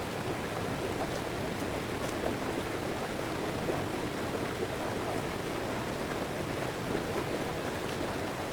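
Steady, even rush of water, with faint scattered ticks.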